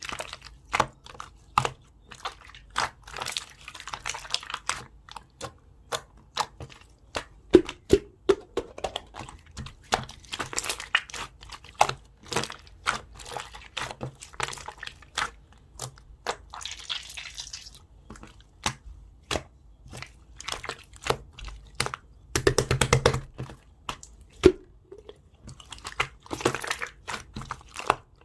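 Jelly slime being squeezed, poked and stretched by hand: a quick, irregular run of sharp pops and clicks with short sticky crackles, one longer squelch a little past the middle.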